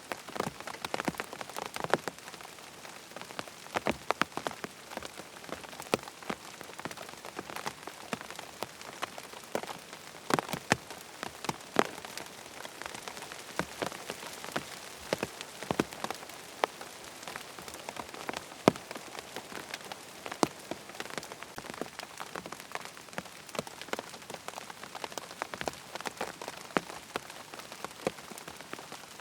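Steady rain falling on a tent, with a constant hiss and many irregular, sharper drop taps on the fabric.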